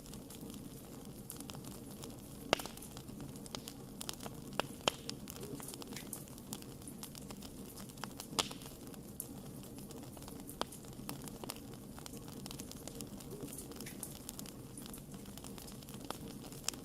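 Wood fire crackling and popping: a steady low rush of flame with irregular sharp pops, two louder ones about two and a half and eight and a half seconds in.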